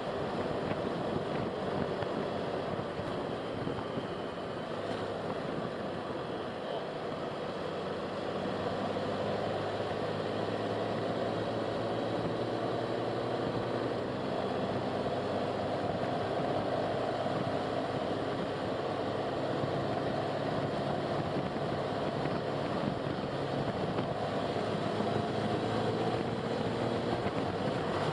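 A car driving along a road: steady tyre and road noise with a faint engine hum that drifts a little in pitch.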